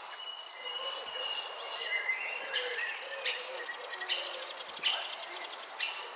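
Garden nature ambience: a steady high-pitched insect drone, with short bird chirps and trills repeating every second or so.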